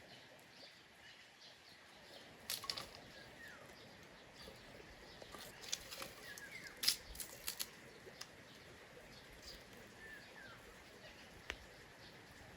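Faint outdoor ambience with small birds giving short falling chirps now and then. A few sharp clicks come through the middle, the loudest about seven seconds in.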